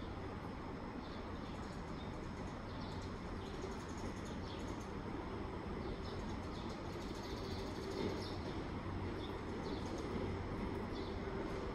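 Station ambience: a steady low hum of train machinery, with a mid-pitched tone that grows from about four seconds in, and birds chirping in short, scattered calls.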